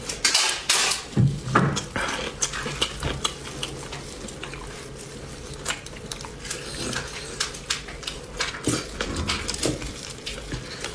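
Close-miked eating of beef bone marrow: irregular wet smacks, slurps and chewing clicks, thinning out for a couple of seconds mid-way before picking up again.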